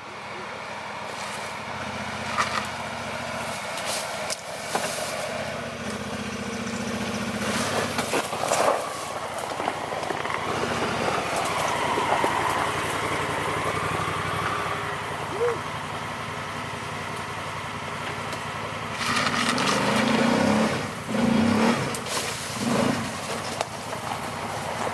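Yamaha Grizzly 700 ATV engine running under way along a trail, with scattered short knocks. The engine grows louder and uneven for a few seconds near the end.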